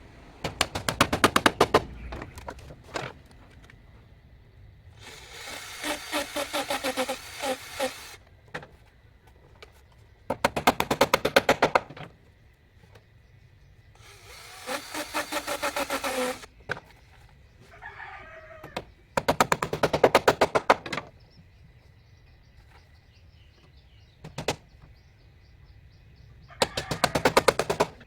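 Repeated bursts of rapid scraping strokes, each about one and a half to two seconds long and coming every eight seconds or so, with longer pitched calls between them.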